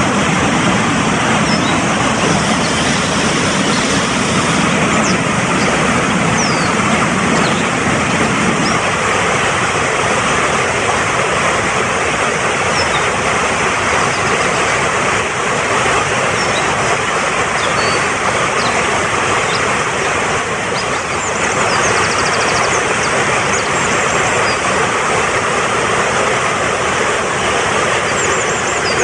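Fast-flowing mountain stream rushing steadily, with short high bird chirps now and then above the water; the deeper part of the rush drops away about nine seconds in.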